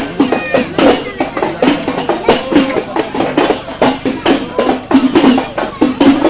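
Loud music played through a big sound system, with a quick, even beat of about three to four strikes a second.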